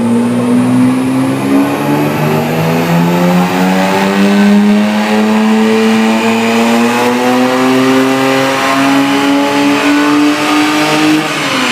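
Car engine revving and held at high revs, its pitch creeping slowly upward, then falling off sharply near the end as the throttle is released.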